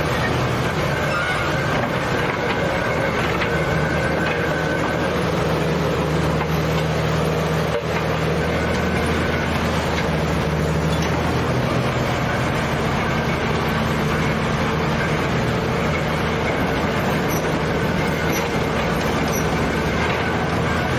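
A large engine of old heavy machinery running steadily, settling into a slightly different pitch about halfway through.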